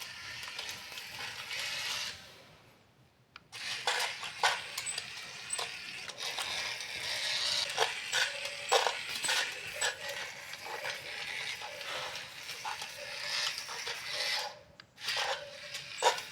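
Small plastic toy mechanism clicking and rattling, many sharp clicks over a whirring hiss, stopping briefly twice.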